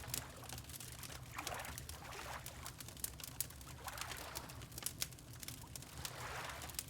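Wood fire crackling with frequent small sharp pops, while water laps in three soft swells about two and a half seconds apart, over a steady low rumble.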